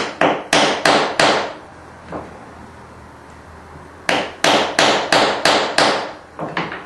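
Hammer blows on a metal fitting cut from pipe, flattening a bent part of it: a run of about five sharp strikes at about three a second, a pause of about three seconds, then about seven more at the same pace, ending with two lighter taps.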